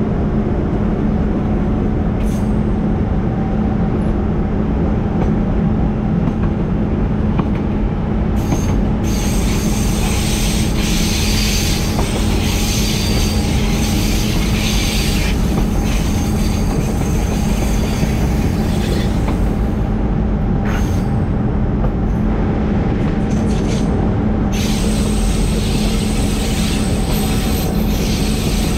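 Diesel-hauled coal train running, with a steady low hum throughout and high-pitched wheel squeal that comes in two long stretches, about a third of the way in and again near the end.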